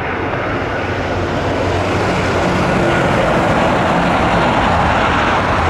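Jet airliner's engines running as it passes close by, a steady rushing roar that grows slowly louder.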